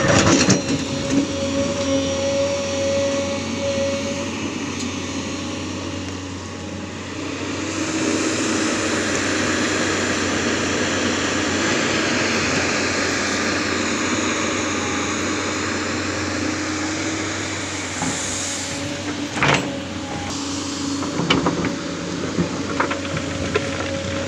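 Tata Hitachi excavator working, its engine and hydraulics running steadily, with a few sharp knocks in the last third.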